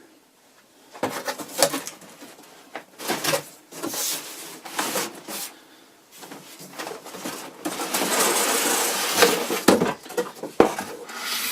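Cardboard and plastic packaging rustling and clattering as a boxed RC truck is handled, in irregular bursts with a longer stretch of rustling about eight seconds in.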